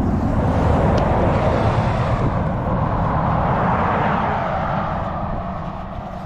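A passing motor vehicle: a rumbling rush of noise that builds over the first second, stays loud until about four seconds in, then fades away.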